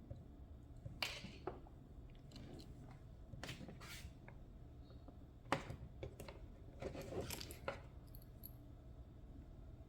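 Scattered light clicks and short rattles of small hard parts being handled, with a busier patch of rattling near the end.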